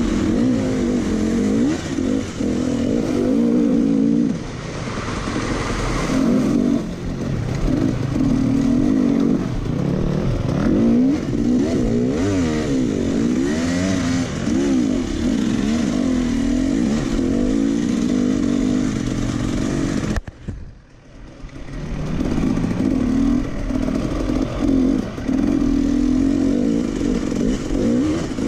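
Racing tractor engine running hard, its pitch rising and falling as the throttle opens and closes, with a sudden drop of about a second a little after twenty seconds before it picks up again.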